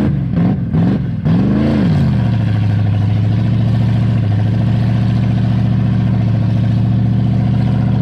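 Holden VL Commodore V8 revving in quick rising and falling blips during a burnout, then held at a steady high rev for about six seconds.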